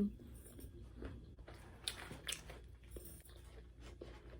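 Close-up chewing and biting of crispy fried chicken: soft wet mouth sounds with a few scattered sharp crunches.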